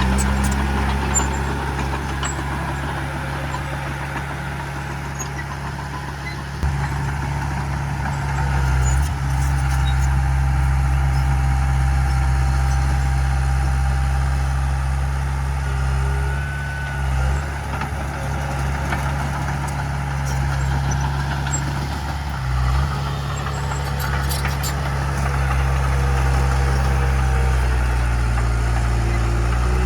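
Diesel engine of heavy earthmoving machinery running continuously, its low note shifting up and down in steps several times as the load changes.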